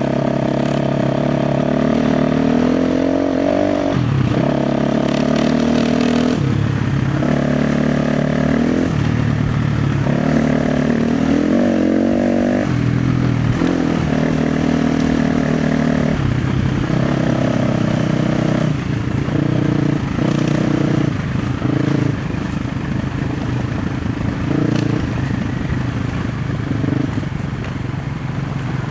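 KTM 350 XC-F single-cylinder four-stroke dirt bike engine revving in repeated bursts, throttle opened and shut every second or two, as it works over rough, rocky ground. Rattles and knocks from the bike and the rocks come through between the pulls.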